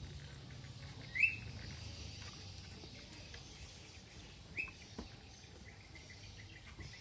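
A bird giving a short rising chirp twice, a few seconds apart, over faint steady background noise.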